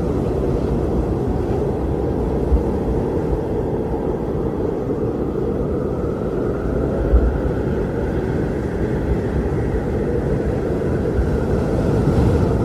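Strong blizzard wind: a steady low rushing with a faint howl that slowly rises and falls in pitch, and a couple of brief low buffets.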